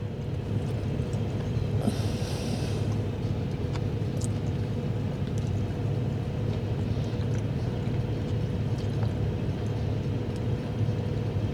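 Steady low mechanical rumble with a constant hum, and a brief hiss about two seconds in.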